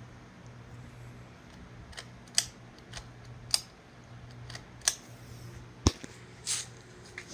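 Hampton Bay Raleigh III ceiling fan's motor running with a steady low hum, with about half a dozen sharp, irregular clicks over it.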